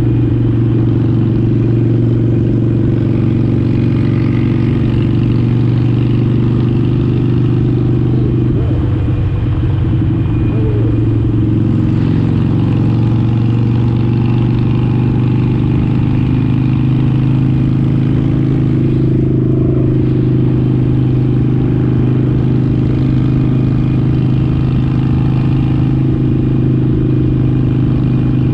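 Motorcycle engine running at a steady highway cruise, its pitch holding even throughout, heard from a handlebar-mounted camera over road and wind noise.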